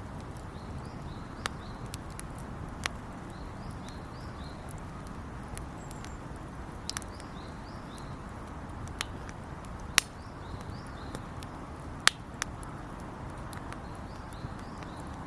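Wood fire burning with a steady low rush, broken by sharp irregular crackles and pops, the loudest about ten and twelve seconds in. Faint high chirps repeat behind it.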